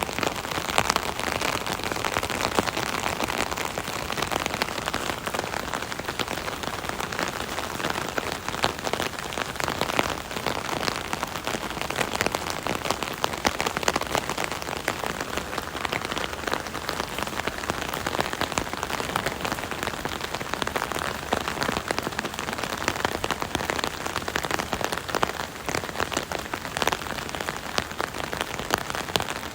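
Steady rain pattering on an umbrella from underneath, a dense hiss of countless drops with individual drop taps standing out.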